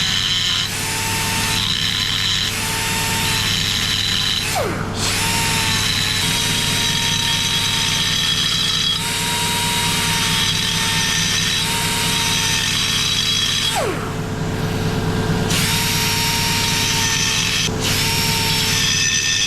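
Die grinder working on an aluminium alloy gearbox casing, running in long stretches with a steady whine. Twice, about four and a half seconds in and again about fourteen seconds in, it is let off and its pitch falls away as it spins down, then it starts again.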